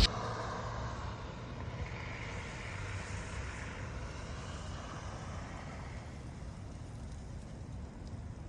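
Steady low rumble with a hiss that swells a couple of seconds in and fades again, like a vehicle passing at a distance.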